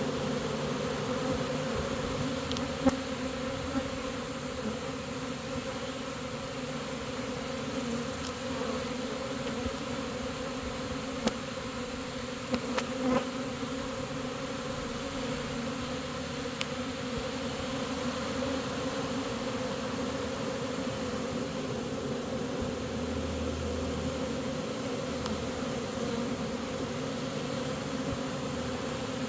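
A honey bee swarm buzzing: a dense, steady hum from many bees at once. A few brief clicks or taps stand out about three seconds in and again between eleven and thirteen seconds in.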